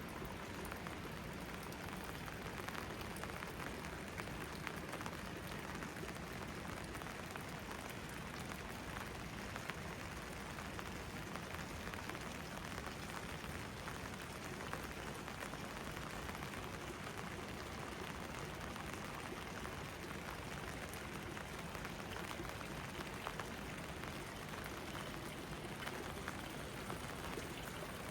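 Steady rain: an even hiss of falling water with many small, sharp drop hits scattered through it.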